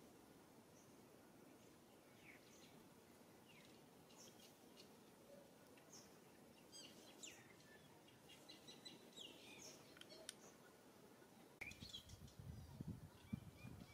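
Faint bird chirps, short high calls that slide downward, scattered over a very quiet outdoor background. Near the end, low rumbling bumps start on the microphone.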